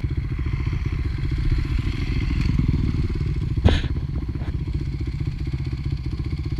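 Single-cylinder four-stroke dirt bike engine idling with an even, low putter. A sharp clack sounds once, a little past the middle.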